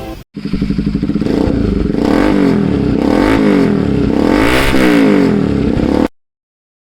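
Bajaj Pulsar NS200's single-cylinder engine breathing through an aftermarket SC Project exhaust, revved up and back down several times. It starts just after the opening and cuts off abruptly near the end.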